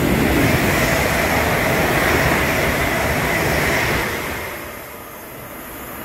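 Class 350 electric multiple unit passing at speed: a loud, steady rush of wheel and rail noise that dies away about four seconds in as the train moves off.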